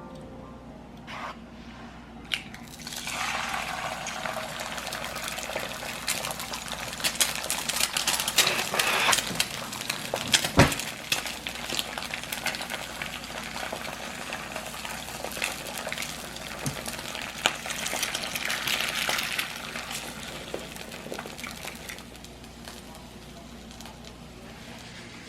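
Water running steadily, starting a couple of seconds in and easing off near the end, with scattered small clicks and one sharp knock about halfway through.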